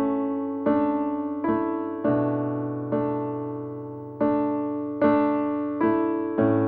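Soft background music on electric piano: slow chords struck about once a second, each fading before the next.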